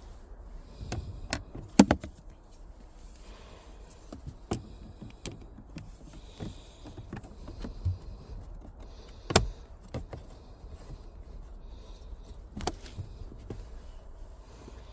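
Scattered clicks and knocks of plastic car-interior parts being handled while the cabin air filter is changed, with a few sharper snaps, the loudest about two seconds in.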